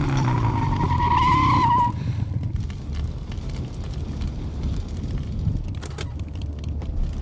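Tyres squealing in a wavering tone for about two seconds over a low vehicle rumble, then the sound drops to a quieter rumble with a few sharp clicks near the end.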